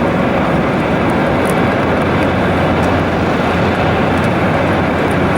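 Steady, loud running noise of a moving train, with a few faint clicks.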